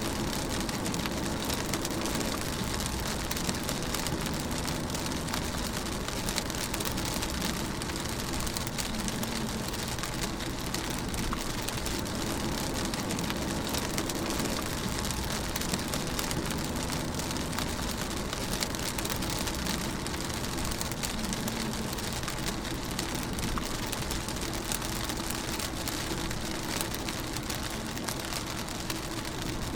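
Steady rain pattering on a car while it is driven, dense drops over a low steady drone of engine and road.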